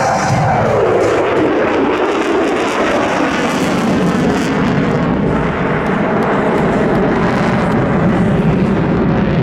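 F-35C fighter jet passing with a loud engine roar, its pitch falling in the first second and a half as it goes by, then a steady rumbling roar.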